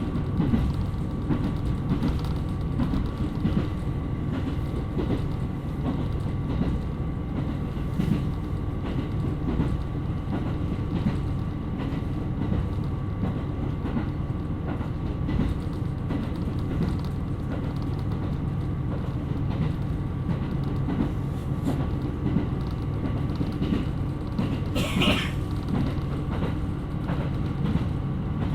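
KiHa 127 series diesel railcar running along the line: a steady rumble with a faint steady whine and occasional light rail-joint clicks, and a brief high squeal about 25 seconds in.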